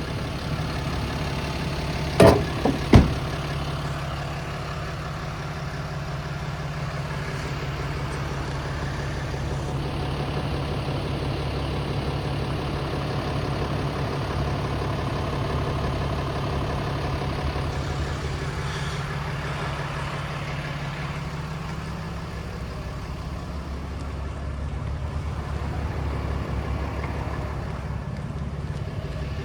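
2018 Ram 3500 heavy-duty pickup's engine idling steadily. Two sharp knocks come about two and three seconds in.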